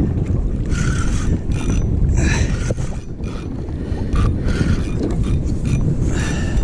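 Fishing reel running in short repeated bursts as a fish is fought on the line, over heavy wind rumble on the microphone.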